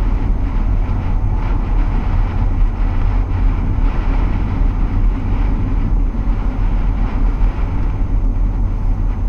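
Steady low rumble and rushing noise of a vehicle driving through blizzard winds of 60+ mph gusts.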